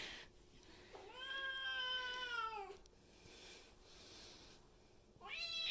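Domestic cat meowing: one long, drawn-out meow that falls in pitch at its end, then a second meow starting near the end.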